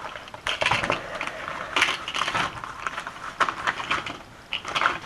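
Irregular clicks, clatters and knocks of hard objects being handled, in quick uneven clusters.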